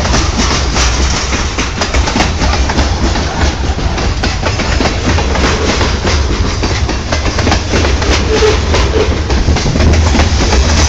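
Covered hopper cars of a CSX freight train rolling past: a loud, steady rumble of steel wheels on the rails, with constant clicking and clacking as the wheels pass over the rail joints.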